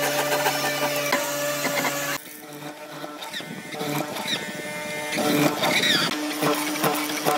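Electric power tool running steadily with a motor hum, cut off abruptly about two seconds in. A quieter stretch of motor hum and scraping on wood follows.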